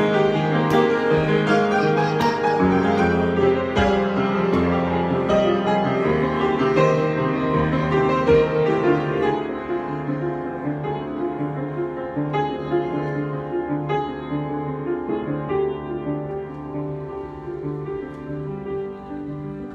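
Piano improvisation: slow sustained chords and melody notes, getting softer about halfway through.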